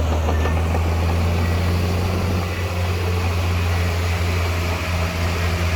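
Heavy diesel engine of earthmoving machinery running steadily, a low even drone with no change in pitch.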